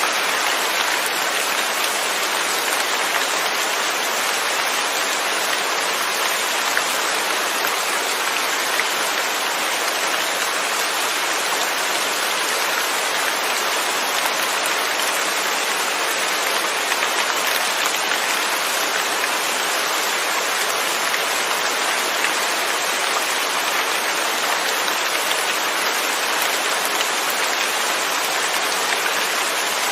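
Steady rainfall without thunder: an even hiss of rain with fine drops pattering on a surface, unchanging in level.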